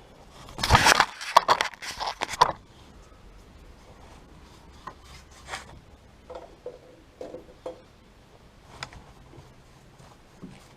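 Hand scraping and rubbing for about two seconds, then faint light ticks and small scrapes.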